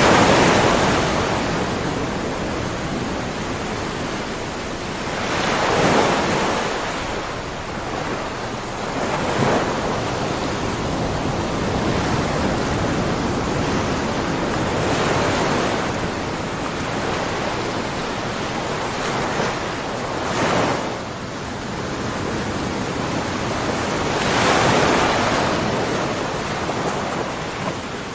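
Ocean waves breaking and washing in, a steady rush of surf that swells and falls, cresting about every four to six seconds.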